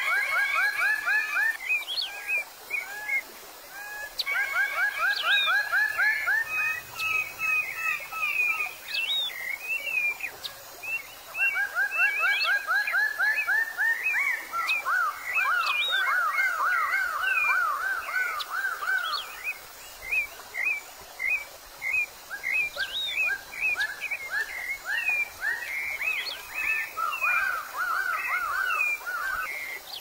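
Forest birds calling: runs of quick repeated sweeping notes, about four a second, each run lasting two to three seconds, with short gaps between runs.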